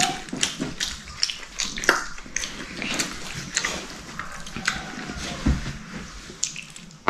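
Scattered light clicks and taps at an uneven pace over a faint steady background hiss.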